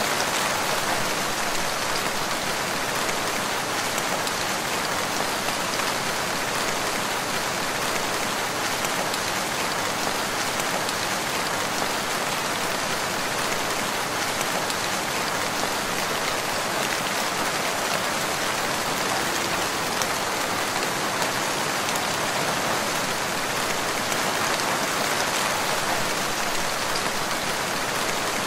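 Steady rain falling in a forest, an even hiss with scattered drops hitting surfaces.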